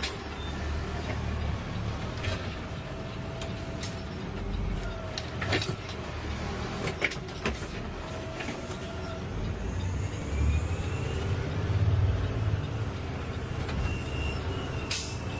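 Garbage truck engine running with a steady low rumble that swells about two-thirds of the way through, with several sharp metal clanks midway and brief squeals, one high squeal near the end.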